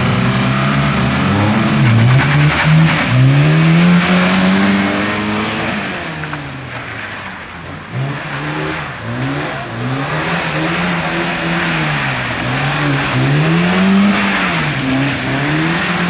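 A Lada saloon's four-cylinder engine is driven hard, its pitch climbing and dropping again and again as the car accelerates and brakes between slalom cones. Tyres squeal on the wet asphalt.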